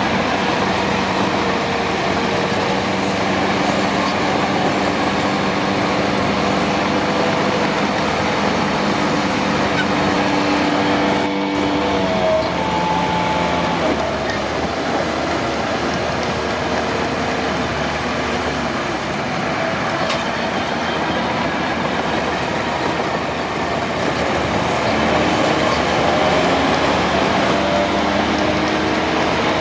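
Diesel engine of heavy earthmoving equipment running steadily. The engine note shifts in pitch about twelve seconds in and again near the end.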